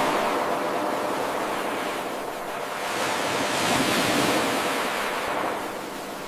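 Ocean waves washing on a shore: a continuous rush of surf that swells to its loudest about halfway through and eases off near the end.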